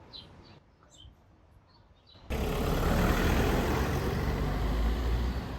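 A few faint chirps, then a sudden jump about two seconds in to loud, steady outdoor noise with a deep rumble.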